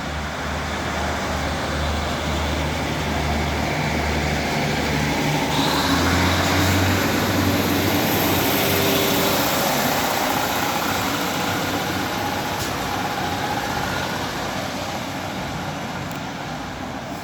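Class 156 two-car diesel multiple unit pulling away, its Cummins diesel engines throbbing low and then rising in pitch about five seconds in as it accelerates. The running noise swells and then slowly fades as the train draws away.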